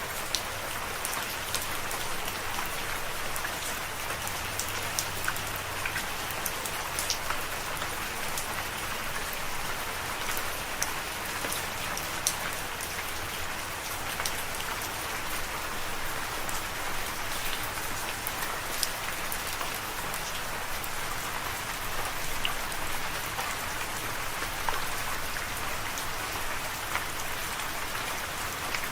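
Steady rain falling on a surface, an even hiss with many distinct drops ticking and pattering through it.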